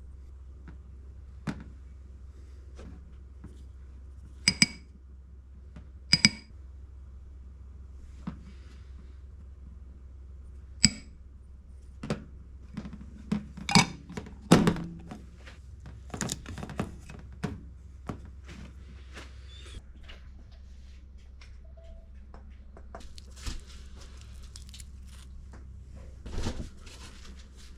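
Handling noises in a small room, likely the kitchen prep of the catch: scattered knocks and clicks, and a few short ringing clinks of hard objects striking each other, most clearly about four and six seconds in. A busier run of knocks comes near the middle. A steady low hum sits underneath.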